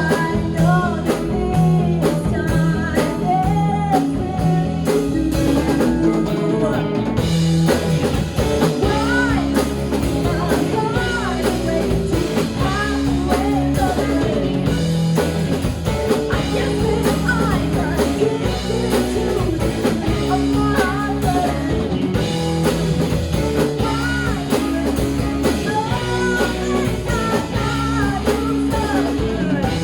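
Live rock band playing an instrumental passage on guitar, bass and drums, with the cymbals coming in fuller about seven seconds in.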